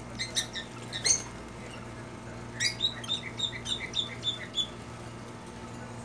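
Caged pet birds calling: a few sharp squawks in the first second and a half, then a quick run of short chirps, about four or five a second, lasting around two seconds. A steady low hum runs underneath.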